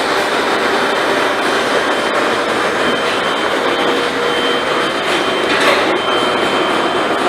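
Steady, loud machinery noise, a dense whirring hum with a thin, constant high whine over it.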